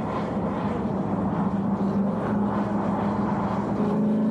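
Chevrolet Corvette C4's V8 engine running steadily as the car drives along the road, its pitch starting to rise slightly near the end.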